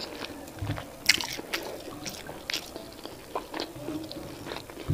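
Close-miked eating sounds of a person chewing boiled yam and vegetable sauce: soft wet chewing with mouth clicks, and a few sharper, louder clicks.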